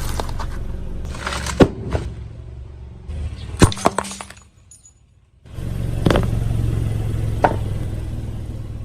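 A car tyre rolls over brittle objects and crushes them, with sharp cracks and crunches above the low rumble of the car. The sound stops for about a second midway.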